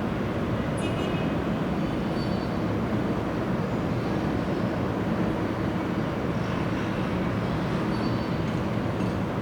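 Passenger train running along the line with a steady low rumble of wheels on rails.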